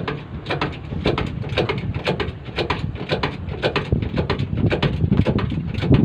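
Repeated blows about two a second, typical of a hammer striking a large truck tyre and rim to break the bead loose, over a steady low rumble.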